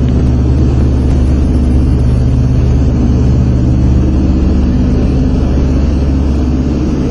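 Lockheed EC-121K Super Constellation's four Wright R-3350 turbo-compound radial piston engines and propellers running with a steady, even drone in flight.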